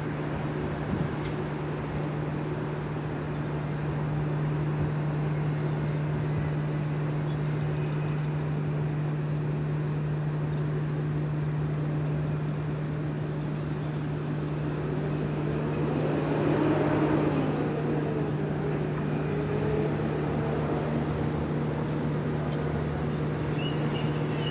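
Electric multiple-unit train at a station: a steady low hum, with a brief louder passing swell that rises and falls about two-thirds of the way through.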